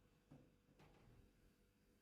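Near silence: room tone with a few faint, soft knocks.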